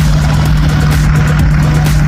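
Wind buffeting the microphone in a fluctuating low rumble, over a steady low hum.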